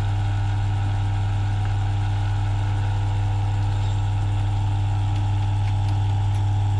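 Metalworking machine tool running steadily during a cut, its electric motor giving a constant low hum with a few steady higher tones.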